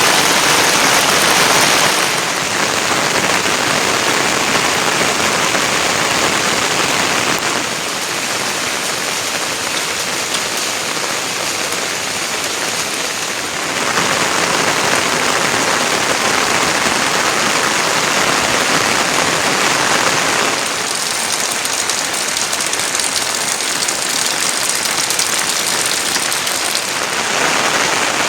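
Rain falling steadily. The sound is loud and even, with abrupt small shifts in level and tone a few times.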